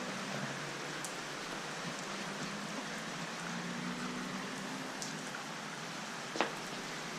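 Steady heavy rain falling, an even hiss, with one sharp click about six seconds in.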